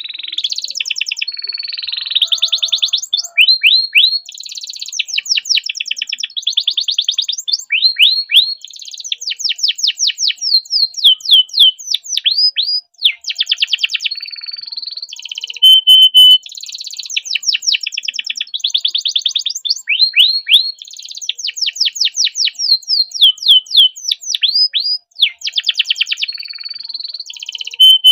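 A domestic canary in full song, delivering long unbroken trills and rolls. These are mixed with runs of quick, sharply falling repeated notes and a few short held whistles. The song breaks off briefly about halfway and again near the end.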